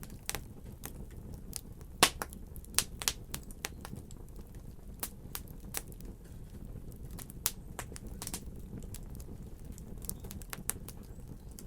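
Wood fire crackling: irregular sharp pops and snaps over a steady low rumble of burning, with the loudest pop about two seconds in.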